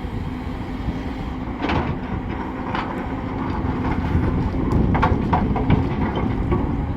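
Heavy diesel earthmoving machinery running steadily, with several sharp metallic clanks and knocks over the rumble.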